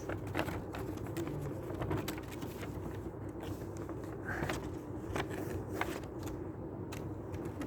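Paper being handled and folded: scattered light rustles and small taps, with a faint steady hum underneath.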